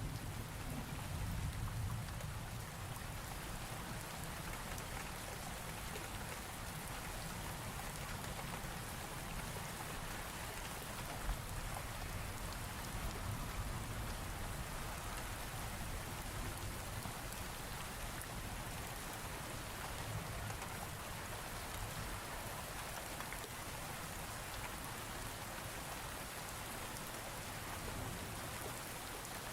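Steady rain falling as part of a thunderstorm, with a low thunder rumble fading over the first couple of seconds and one sharper tap about eleven seconds in.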